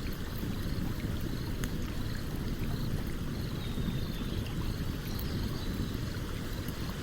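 Steady low rushing of a flowing stream, with a few sparse, faint crackles from a wood campfire.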